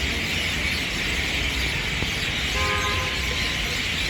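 Steady, dense chatter of a large flock of birds in a tree, with a vehicle horn honking once for about half a second just past the middle.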